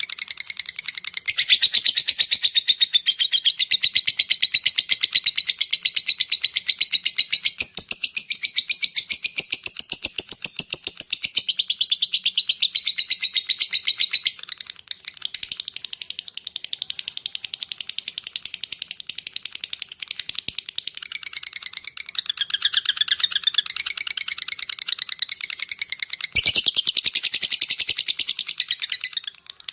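Lovebird giving its long chattering call (ngekek): loud, high-pitched, rapid ticking chatter in long unbroken runs, with a short break about halfway through.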